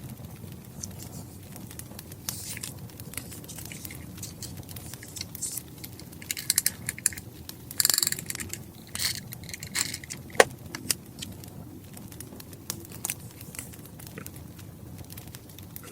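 Wood fire crackling with a low steady rumble. In the middle stretch, paper and stationery are handled in louder rustles and clicks, with one sharp click about two-thirds of the way in.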